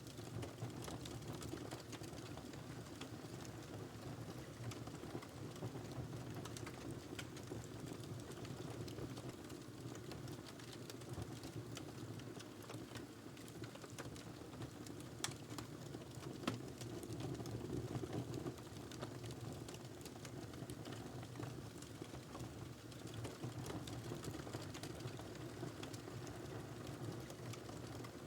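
Wood fire burning in a fireplace: a steady low rumble of flames with frequent small crackles, and a couple of sharper pops a little past the middle.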